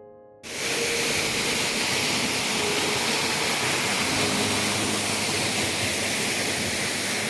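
Waterfall rushing: a loud, steady, even roar that cuts in suddenly about half a second in.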